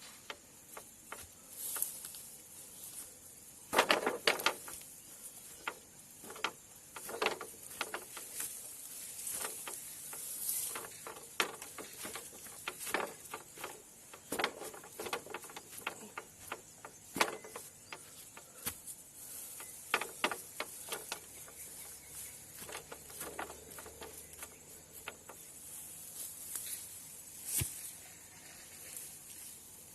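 Irregular rustling, tapping and sharp clicks of hands working materials, with a loud cluster of knocks about four seconds in, over a faint steady hiss.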